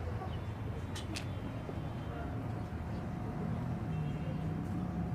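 Diesel engine of a Scania-chassis Irizar i5 coach bus running with a steady low rumble, its tone rising a little about three and a half seconds in. Two short clicks sound about a second in.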